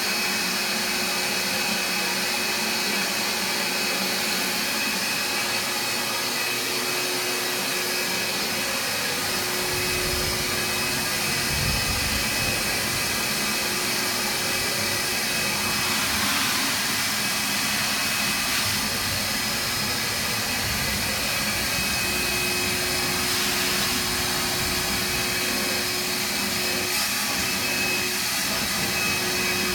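Shop vac running steadily: a loud, even rush of air with a constant whine. A few low thuds come about ten to twelve seconds in.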